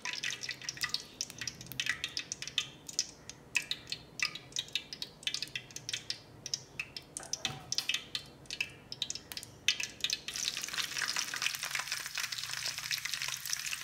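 Hot cooking oil in an aluminium kadai crackles with scattered pops as fried curry leaves are lifted out. About ten seconds in, slit green chillies go into the oil and it breaks into a steady sizzle.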